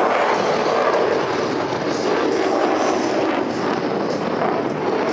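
Jet aircraft engine noise, a loud and steady rush that neither rises nor falls much.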